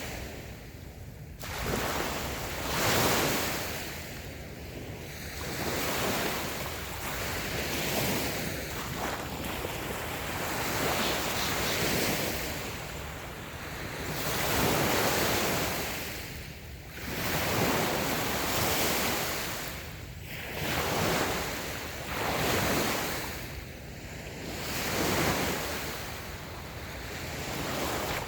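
Small waves breaking and washing up a sandy beach, the surf swelling and ebbing every three to four seconds.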